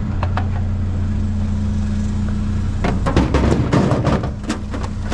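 A vehicle engine idling with a steady low hum. About three seconds in, a quick run of clattering and knocking starts as junk in the dumpster is handled and shifted.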